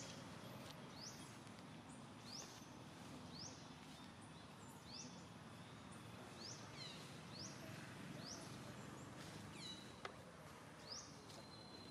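Faint outdoor ambience with a bird repeating a short, high chirp about once a second, and a few lower descending calls near the end.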